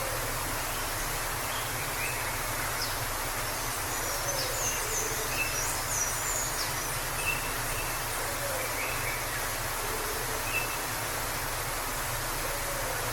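Steady rush of a forest waterfall, with small birds chirping now and then over it, most often about a third to halfway through.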